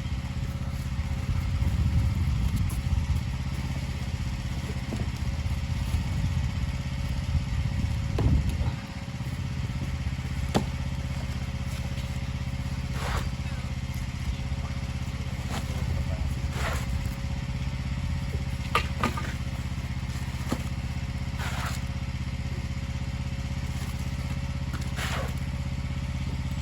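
A pressure washer's engine running steadily with a low drone, rougher for the first eight seconds or so, with short scraping knocks scattered over it.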